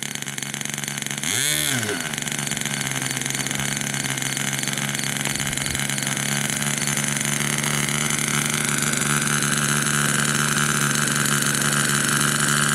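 Model-aircraft nitro glow engine running steadily, getting slowly louder. About a second and a half in there is a short rise and fall in pitch.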